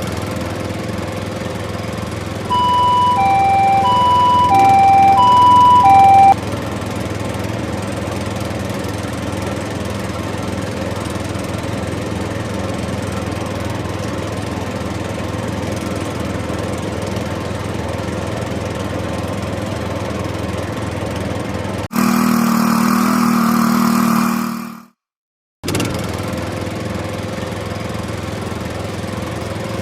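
Steady vehicle engine drone, with a two-tone hi-lo ambulance siren alternating between two pitches for about four seconds early on. About three-quarters through, a louder, different sound briefly takes over, then cuts out abruptly before the engine drone returns.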